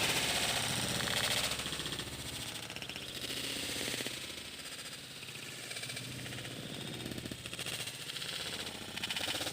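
Sooty-headed bulbul giving a rapid, continuous rattling chatter, loudest in the first second and a half.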